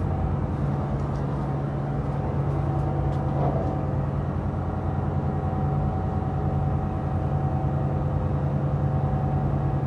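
Steady low engine drone with a constant hum and a few held tones above it, unchanging throughout.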